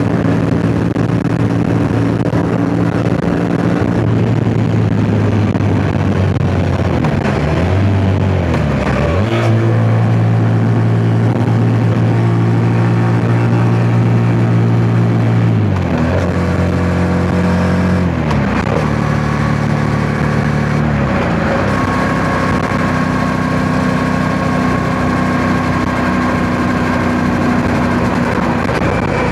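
Yamaha MT-07 parallel-twin engine running under way at steady revs. Its note drops and climbs back up about eight seconds in, and again several times between about 16 and 21 seconds.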